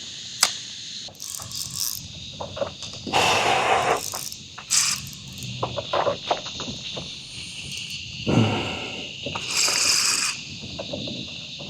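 Cicadas shrilling steadily in a dense chorus, with several short louder rustling or splashing noises over it.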